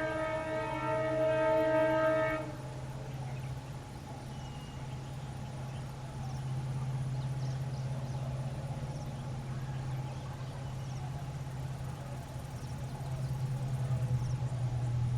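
Air horn of a WDP4B diesel locomotive sounding for about two seconds and cutting off, then the train running with a steady low drone that grows louder near the end.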